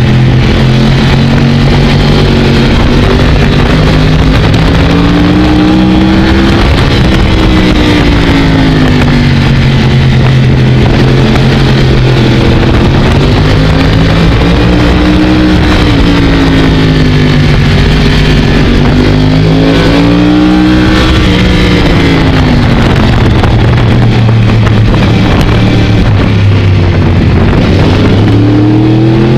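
Sport motorcycle engine, heard from the bike itself, pulling through a run of bends: its note climbs and drops several times as the throttle is opened and rolled off, and climbs again near the end, over a steady rush of wind and road noise.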